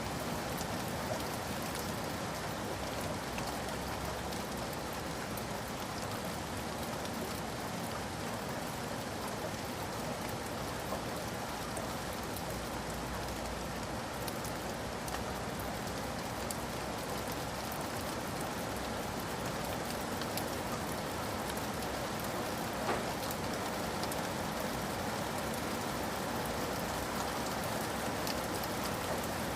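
Steady rain falling, a constant hiss with many fine drop ticks, and one slightly louder drip or tap about 23 seconds in.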